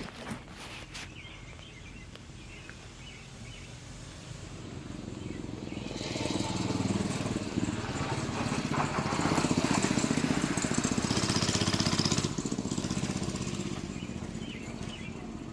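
Mini bike's small engine running, growing louder as it comes closer and loudest for about six seconds in the middle, then dropping suddenly a little after twelve seconds in, as if the throttle is let off, and fading away.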